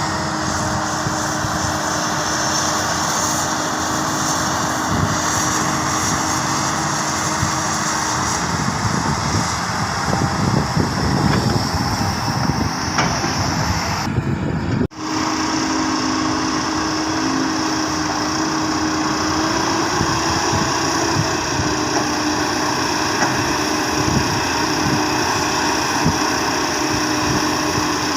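Heavy earthmoving machinery's diesel engine running steadily, with a brief cut in the sound about halfway through.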